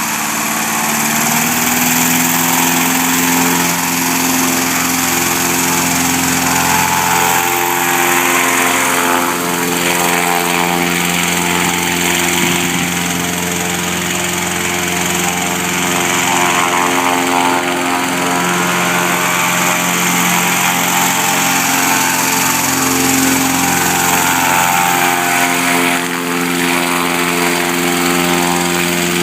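Small engine of a homemade mini airboat running steadily and driving its propeller, its speed wavering a little up and down with a brief dip near the end. The engine is new and being broken in.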